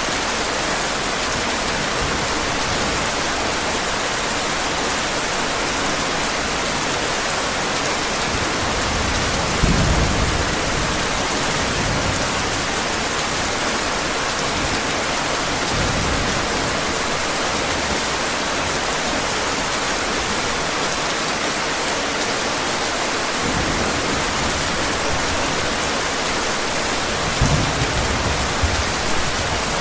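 Heavy rain falling steadily, with low rumbles of thunder about ten seconds in and again near the end.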